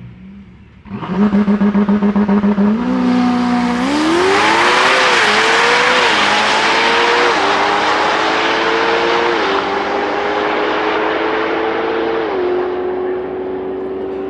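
Ferrari 488 Pista's twin-turbo V8 launching down a drag strip. It stutters rapidly on the launch limiter for a couple of seconds, then pulls hard, the pitch climbing through each gear and dropping at several quick upshifts.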